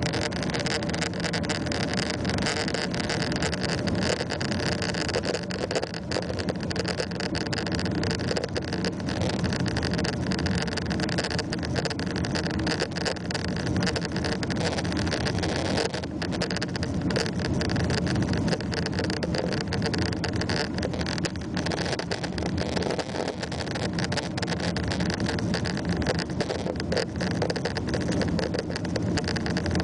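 Boeing 777-300 cabin noise during the climb after takeoff: the jet engines and rushing air make a steady, unbroken drone with a few steady tones in it.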